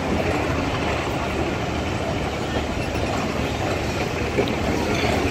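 Passenger train coaches rolling past on the track, a steady wheel-on-rail running noise.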